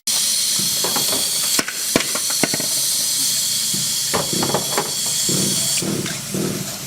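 A loud, steady spraying hiss, like compressed air or a spray jet on engine parts, with a few sharp clicks and some clatter of handled metal parts; the hiss cuts off about six seconds in.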